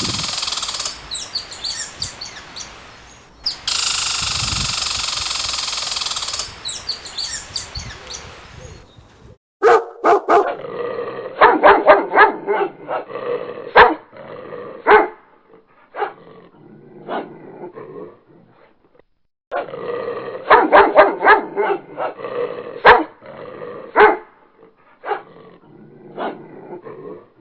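A steady noisy stretch gives way, about nine seconds in, to a dog barking in quick bursts of short barks, with gaps between the bursts.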